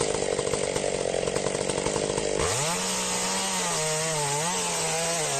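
Chainsaw running, then about halfway through its engine revs up sharply and holds at high speed, the pitch wavering and dipping as it works.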